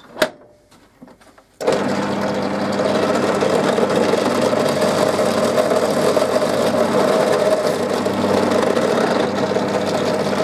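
A sharp click, then about a second and a half later a bandsaw starts abruptly and runs with a loud, steady hum while cutting a slot in wood; it cuts off near the end.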